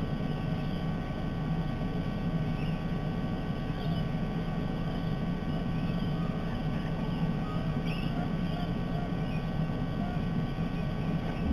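Steady low rumble of outdoor background noise with a faint constant electronic whine, and a few faint short bird chirps, around four and eight seconds in.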